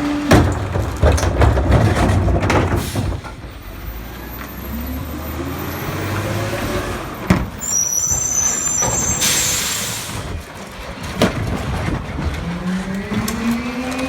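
CCC garbage truck with a Pak-Mor rear-loader body working a heavy load: the diesel engine revs up and down to drive the packer hydraulics, with a rough grinding noise at first, a couple of clanks, a burst of air hiss about nine seconds in, and the engine revving up again near the end.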